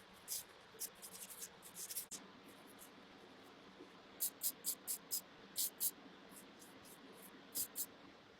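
Pocket knife blade scraping in short, crisp strokes: a few irregular strokes at first, then a quick even run of about six at around three a second, and two more near the end.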